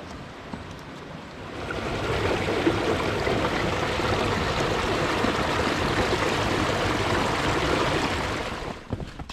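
Stream water rushing over rocks, a steady even noise that swells about a second and a half in and drops away near the end.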